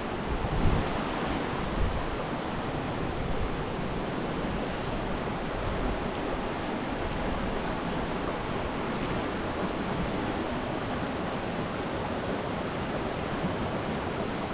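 A brook in high flow, running fast: a steady, even rush of water. A couple of brief bumps on the microphone come in the first two seconds.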